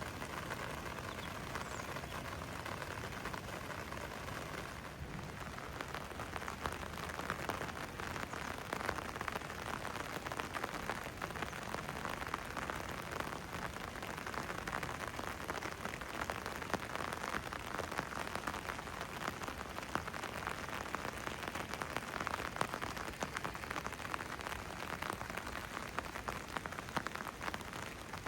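Steady rain falling: a dense hiss of many small drop ticks, which grows a little louder about five seconds in.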